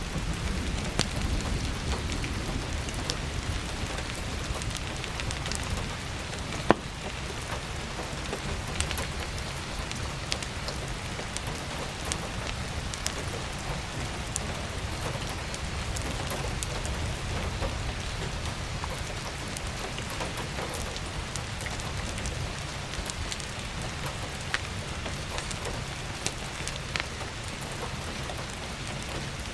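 Heavy rain on an attic skylight, a steady dense hiss with a low rumble, mixed with crackling firewood in a wood stove: scattered sharp pops throughout, one louder pop about seven seconds in.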